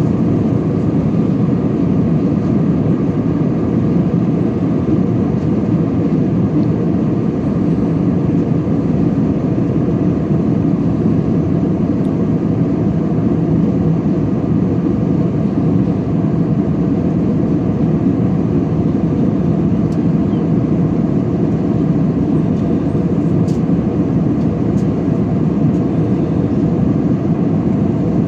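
Steady cabin noise of an Airbus A320 in flight: an even, low rushing sound of engines and airflow, heard from inside the cabin, unchanging throughout.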